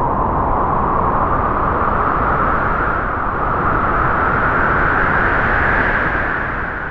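A long gust of wind: a rushing noise whose pitch slowly rises, beginning to die away at the very end.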